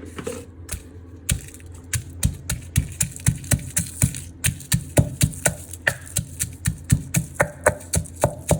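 Pestle pounding dried chilies and garlic in a mortar: steady, even strikes about three a second, each a sharp knock with a low thud, starting about a second in.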